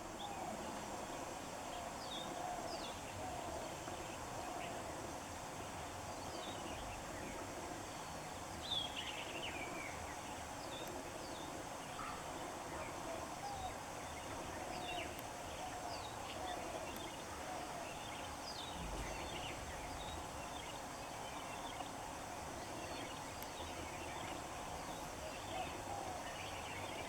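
Outdoor chorus of birds calling: many short, falling chirps and whistles over a steady, wavering lower call that repeats.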